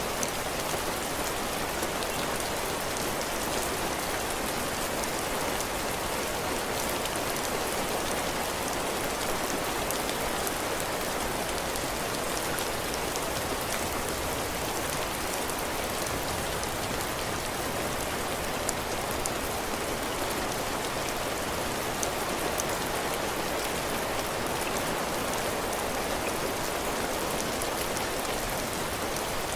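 Heavy rain falling steadily on a cabin porch, drops pattering on the roof and floor.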